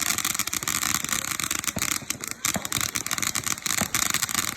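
A lit firework crackling: a dense, continuous stream of rapid small pops over a steady hiss.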